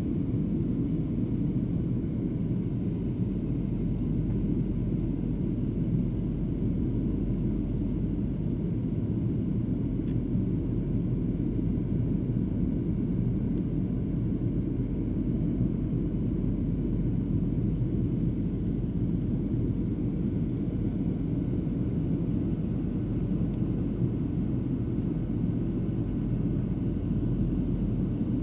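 Airliner cabin noise in flight: a steady low rumble of jet engines and airflow, unchanging throughout.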